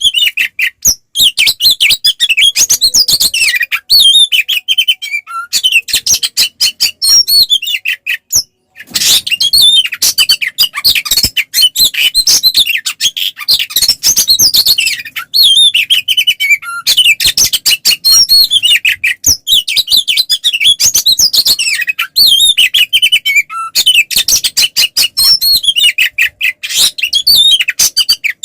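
Oriental magpie-robin (kacer) in full, unbroken fighting song: a loud, fast run of varied whistles and chattering notes, with one short pause about eight seconds in.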